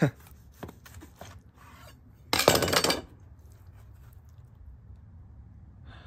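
Chef's knife cutting a burger on a wooden cutting board: a sharp knock at the start, a few light clicks, then a loud metallic scraping clatter just under a second long about two and a half seconds in.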